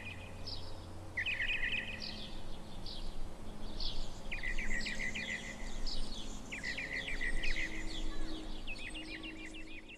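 Songbirds singing: short, rapid trilled phrases repeating every second or two, with a few higher single notes between them.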